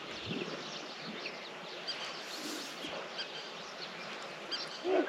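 Outdoor bush ambience: many small birds chirping over a faint steady background of insects and wind. Right at the end a louder animal call begins.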